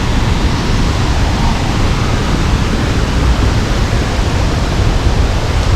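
Sgwd yr Eira waterfall pouring: a loud, steady rush of falling water with a deep low rumble.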